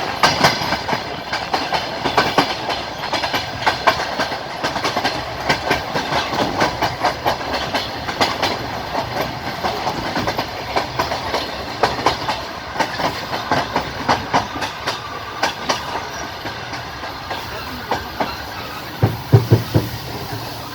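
Passenger train coach wheels clattering over rail joints at speed: a constant run of clicks over the steady running rumble, with a cluster of heavier, deeper knocks near the end.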